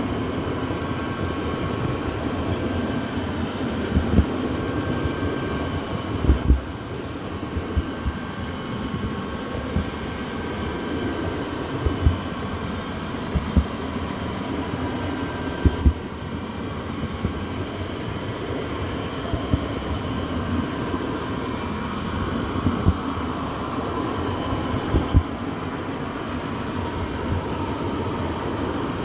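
A train running on rails: a steady rumble of wheels on track, with short thumps every few seconds at uneven spacing.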